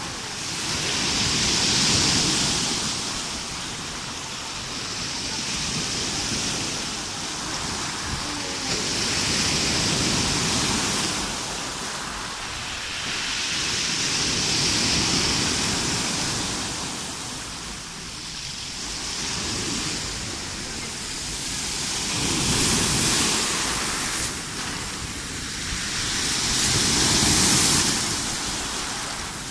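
Rough sea waves breaking and washing on the shore, the surf swelling and fading every few seconds.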